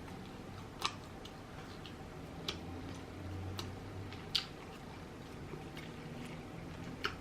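Quiet close-up chewing of rotisserie chicken, with a few sharp wet mouth clicks over a faint low hum.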